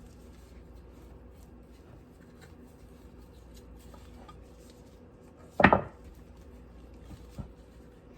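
Faint rubbing and light clicks of a baking pan being buttered by hand, with one short loud knock of the pan or a utensil about five and a half seconds in and a smaller one near the end.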